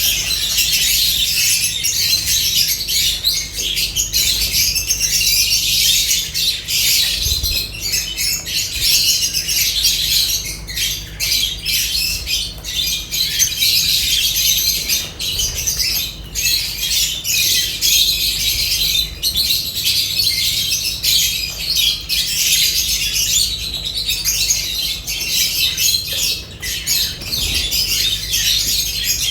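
Lovebirds chattering and squawking together in a dense, continuous stream of shrill, high-pitched calls.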